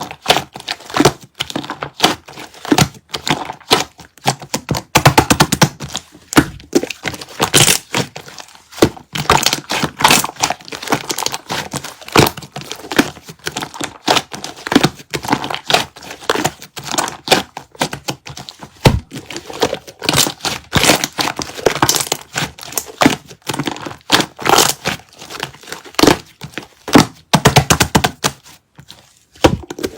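Clear slime mixed with shaving foam being squeezed and kneaded by hand, giving a dense, irregular run of wet clicks and crackling pops.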